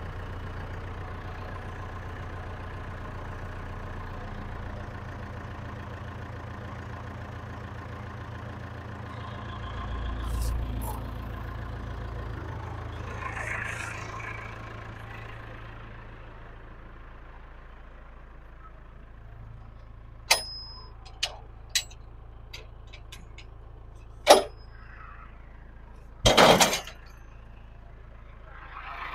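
Norwood HD36 sawmill's engine idling steadily, dying away about two-thirds of the way through. Then comes a string of sharp metallic knocks and clanks, the loudest two near the end.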